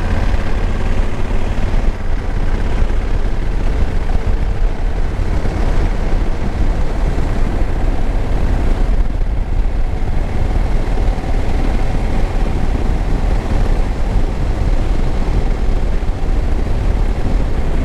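2021 Honda Africa Twin's parallel-twin engine running steadily on the road, mixed with a heavy, low rush of wind over the microphone.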